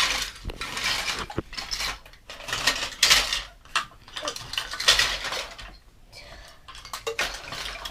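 Hard plastic toy track pieces clattering and rattling against each other as they are shoved aside and rummaged through, in several bursts.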